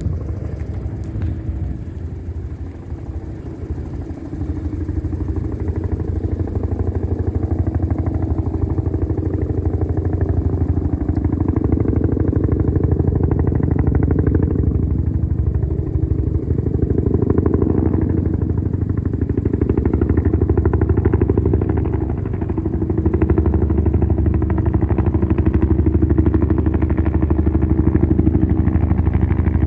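Bell UH-1 "Huey" helicopter running, its two-bladed main rotor beating in a fast, even chop over the turboshaft engine. It grows louder about four seconds in and again past the twenty-second mark, with brief pitch sweeps in the middle as it moves.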